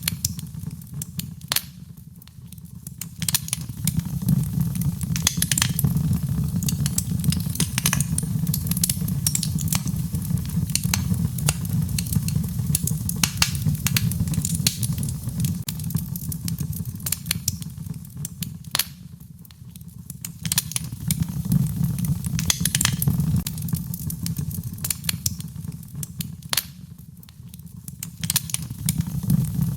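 Fire crackling in a fireplace: frequent sharp pops and snaps over a low rumble that eases and swells again a few times.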